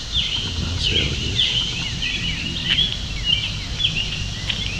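Birds chirping: many short, quick high chirps overlapping one another, with a low rumble underneath.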